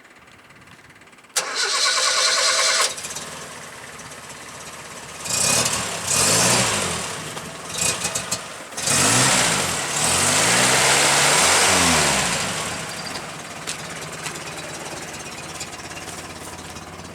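Datsun truck engine being started: the starter cranks briefly, the engine catches, and it is revved up and down several times before settling to a steady idle.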